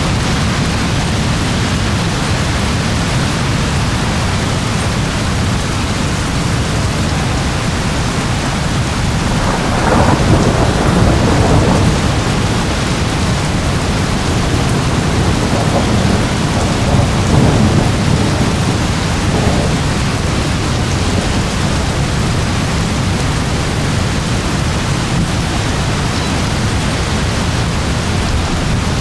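Steady rain with thunder rumbling. Two louder, longer rolls of thunder come about a third of the way in and again just past halfway.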